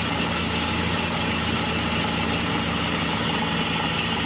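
2001 PT Cruiser engine idling steadily under the open hood, a low hum with a steady high whine above it, while the A/C compressor is unplugged and not engaged, so no belt squeal.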